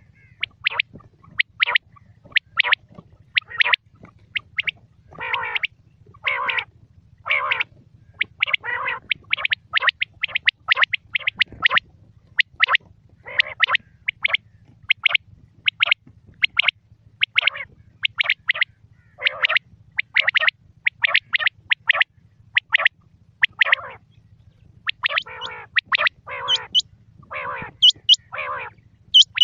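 Quail calling over and over, short sharp high notes mixed with lower, rougher calls, about one or two a second, over a faint steady low hum.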